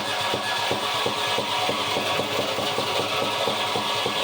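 1973 Volvo D4 marine diesel idling just after a cold start, running on its own without throttle. It has an even, rapid diesel knock of about five beats a second.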